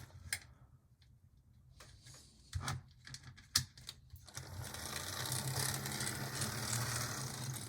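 A few sharp clicks and knocks, then from about four and a half seconds in the motor and gears of an Athearn Blue Box F45 HO-scale model locomotive running with a steady growl. The growl comes from the old Athearn drive's loose-fitting gears.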